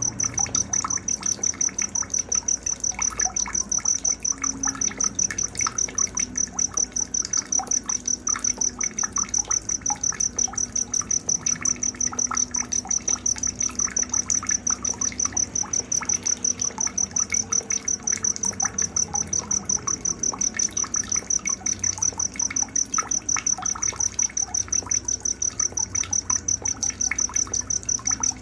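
Night nature ambience: a high-pitched insect chirps in an even pulse, about three times a second, over scattered bird chirps and a soft trickle of water.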